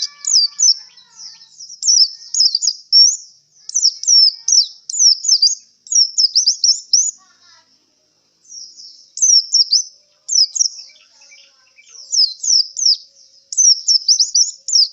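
A white-eye (pleci) singing: quick phrases of short, high, falling chirps with brief pauses between them. The bird is singing after a song contest, in a state its owner calls tired.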